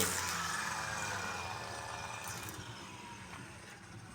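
A vehicle engine running, its sound fading steadily over a few seconds.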